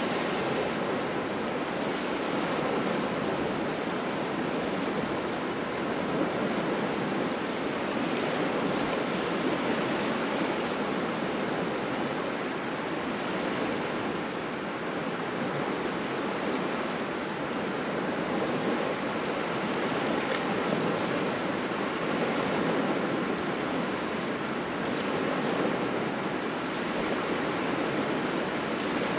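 Small waves washing steadily onto the shore in a cold, gusty wind, a dense rushing wash that swells and eases gently.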